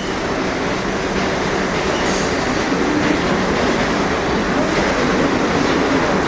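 Subway train running along the track: a steady rumble of wheels on rail.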